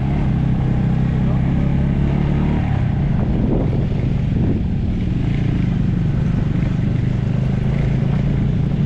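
Motorcycle engine running steadily under way; its pitch shifts about three seconds in, then holds.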